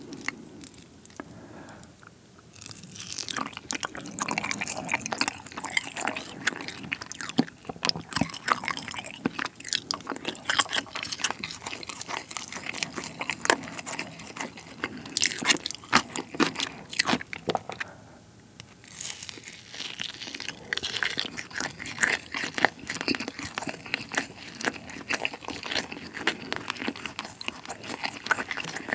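Close-miked chewing of spicy braised monkfish with bean sprouts: a dense run of crunches and mouth clicks, with a brief quieter pause about two-thirds of the way through.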